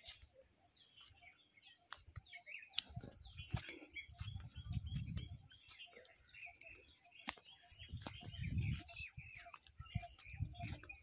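Small birds chirping and twittering, many short overlapping calls throughout, with two low rumbles about four and eight seconds in.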